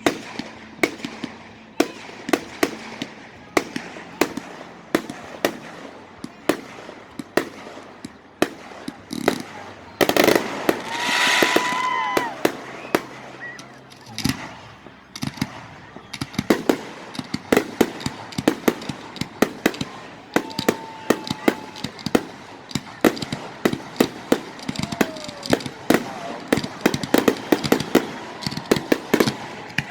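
Aerial fireworks going off in a long run of sharp bangs and crackles. A louder, longer burst with a high tone comes about ten seconds in, and the bangs grow denser and faster through the second half.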